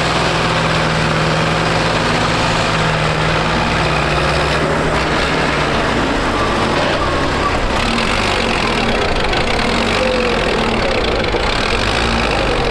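Tractor diesel engine running. Its steady note gives way to a rougher, less even sound about five seconds in.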